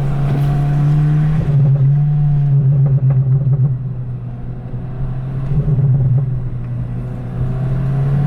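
Mk7.5 Golf GTI's turbocharged 2.0-litre four-cylinder with a straight-pipe exhaust, droning steadily while driving. It gets quieter for a moment about halfway through, then loud again.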